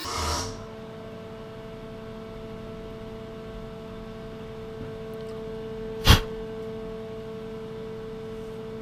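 Machine-tool motor humming steadily with a few fixed tones, just after the cut stops. One brief, sharp noise comes about six seconds in.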